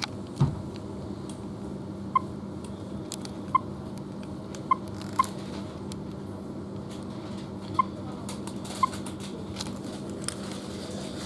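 Railway platform background: a steady low hum, with short, high chirps or squeaks every second or so and a few faint clicks.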